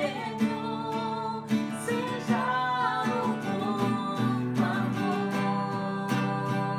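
Worship song played on a strummed acoustic guitar, with a melody line over it.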